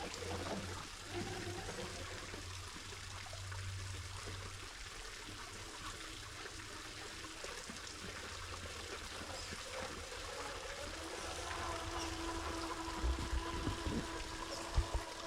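Running water of a stream, a steady trickling rush. A low hum stops about five seconds in, a steady tone comes in after about eleven seconds, and a few low thumps sound near the end.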